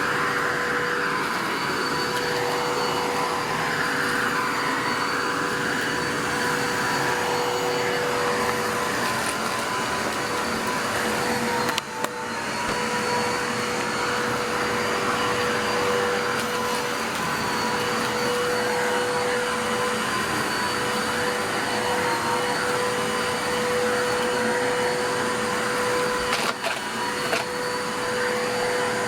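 Bissell 3760-1 vacuum cleaner running steadily: a constant motor whine under a rush of air that swells and fades with each push and pull. The note sags briefly about twelve seconds in, and there are a couple of sharp knocks near the end.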